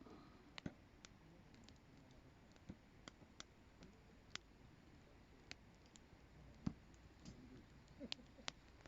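Faint firewood crackling in a small fire pit: irregular sharp pops and clicks, about one or two a second, with the loudest pop a little past halfway.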